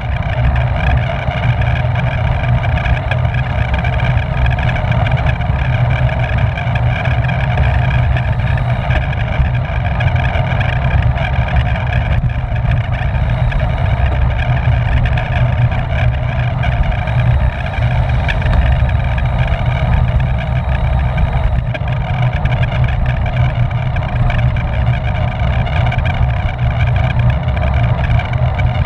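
Steady wind rumble on the microphone of a camera riding on a racing bicycle at race speed, with the whir of tyres and drivetrain.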